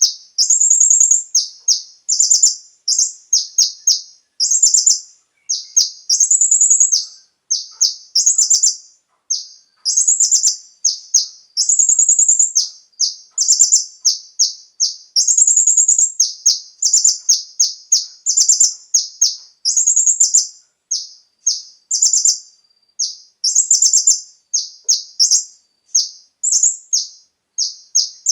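Kolibri ninja (konin), a sunbird, singing a continuous string of high, rapid trilled and chattering phrases, each less than a second long, with short gaps between them.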